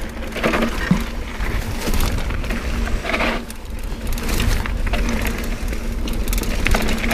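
Mountain bike ridden on a dirt trail: tyres crunching over loose ground, with the chain and frame clicking and rattling over a constant low rumble on the microphone.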